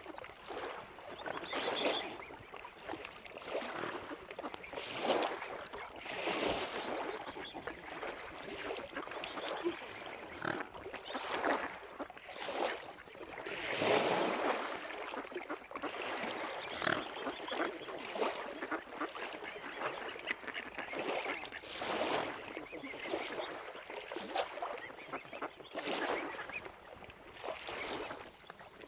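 Waterfowl calling: a run of short honks and quacks, one every second or two.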